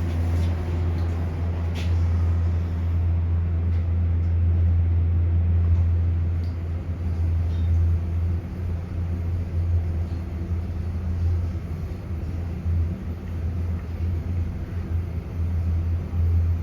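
Elevator cab travelling upward, heard from inside: a steady low hum from the drive, with some slight wavering in the second half.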